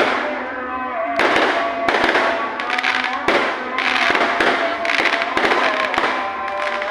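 Fireworks going off in quick succession, a sharp bang about once or twice a second with crackling in between.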